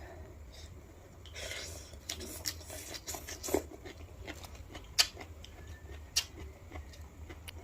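Close-miked mukbang eating sounds: wet, crackly chewing and mouth clicks, with a soft breathy rush early on and two sharper clicks about five and six seconds in.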